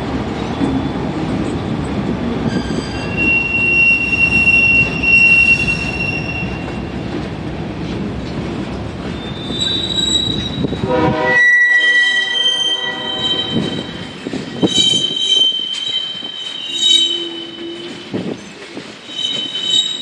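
Freight train cars rolling past, their wheels squealing in several high, steady tones over the rumble and clatter of wheels on rail. A little past halfway the low rumble drops away abruptly, and the squeals carry on.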